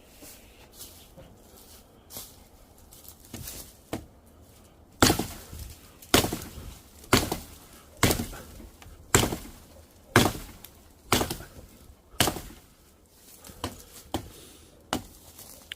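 Axe chopping firewood: eight strong blows about a second apart, then several lighter, more irregular knocks near the end. The wood seems not yet dry, so the axe is not splitting it well.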